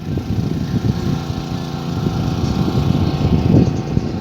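Portable generator engine running steadily with a loud, noisy drone.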